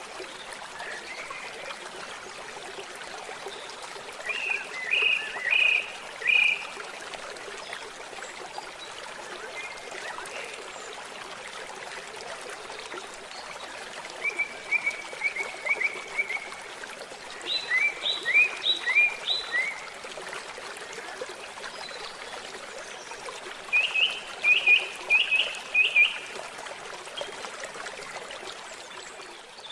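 Steady babble of a trickling stream, with birds calling over it in four short bursts of quick, chirping notes; the sound starts to fade at the very end.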